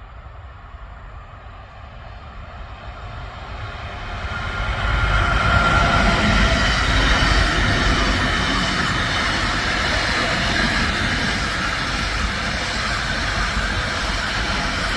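A train approaching and passing close by. Its rolling noise grows louder over the first five seconds, then holds loud and steady as the wheels run over the rails.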